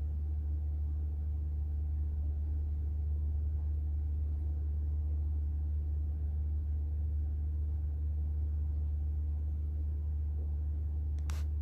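A steady low hum, with a single short click near the end.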